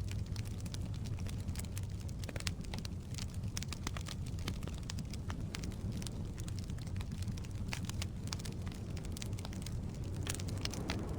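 Wood fire crackling in a fireplace: a steady low rumble of flames with frequent sharp pops and crackles from the burning logs.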